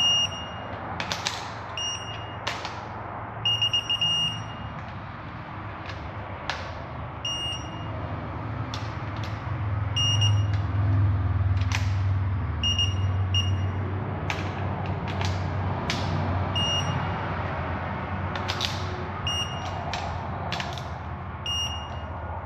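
Digital torque wrench giving short repeated beeps as each exhaust manifold bolt reaches its 18 foot-pound setting, with sharp ratchet clicks between the beeps. A low hum swells underneath from about ten seconds in.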